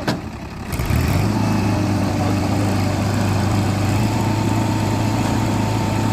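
Heavy diesel engine of farm or earthmoving machinery jumps up to a loud, steady run about a second in and holds an even pitch. A faint steady high whine joins partway through.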